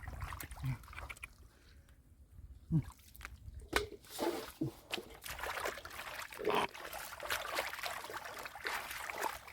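Shallow water sloshing and splashing in irregular bursts, sparse at first and busier from about four seconds in.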